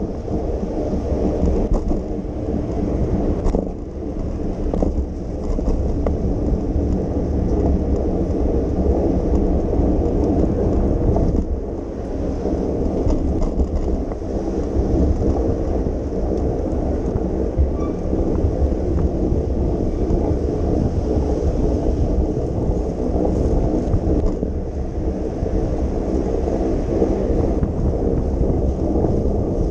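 Wind rumbling on the microphone of a camera moving along on a bicycle: a steady low noise that dips briefly about four and twelve seconds in.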